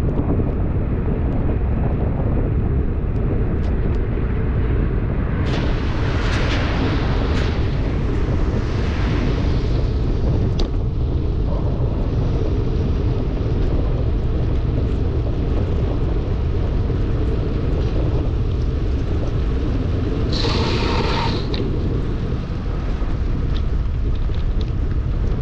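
Wind buffeting the microphone of a bicycle descending in heavy rain: a steady low rumble, with a brief louder hiss about six seconds in and again near the end.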